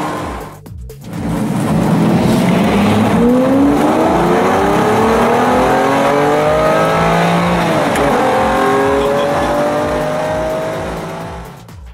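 Racing or high-performance car engine at full throttle, its pitch climbing steadily, with the car passing by about eight seconds in and then pulling away; the sound dips briefly just under a second in and tapers off near the end. A steady low beat runs underneath.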